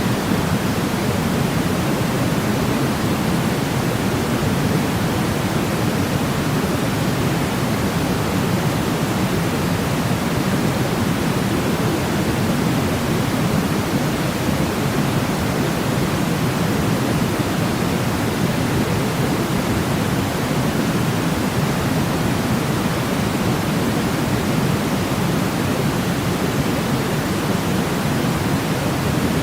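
Steady synthetic pink-type noise for sleep, an even hiss-and-rush strongest in the low-mid range, unchanging throughout.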